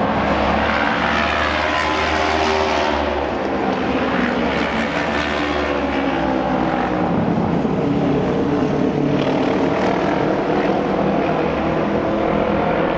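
A pack of auto race motorcycles running together at racing speed. Several engine notes overlap, each rising and falling in pitch as the bikes pass and go round the track.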